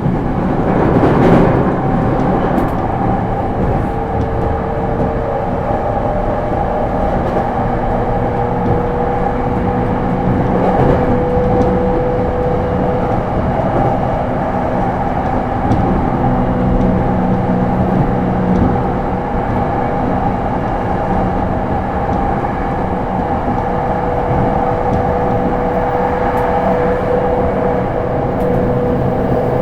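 JR East E231 series suburban electric train running at steady speed, heard from inside the passenger car: continuous rolling noise of wheels on rail with a steady hum, and a brief louder swell about a second in.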